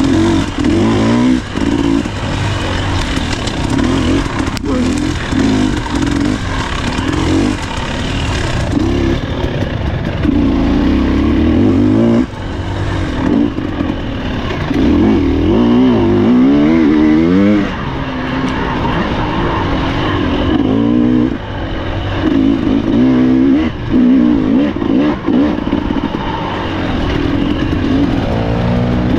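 Husqvarna TE300 two-stroke dirt bike engine being ridden hard off-road, the revs rising and falling again and again with throttle and gear changes.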